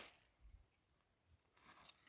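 Near silence, with a faint low thump about half a second in and faint rustling near the end.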